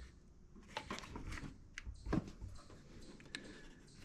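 Faint handling noises: a few light clicks and knocks, the loudest about two seconds in.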